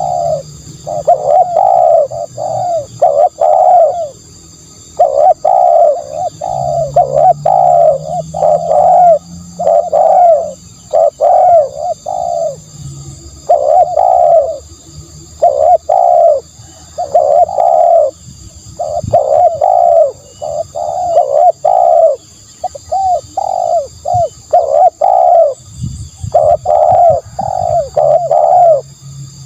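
Spotted dove cooing over and over, in runs of three to five rounded coo notes with short pauses between runs.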